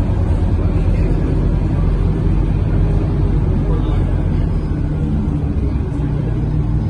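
Scania K230UB city bus running, its engine a steady low drone heard from inside the passenger cabin, with road and cabin noise over it.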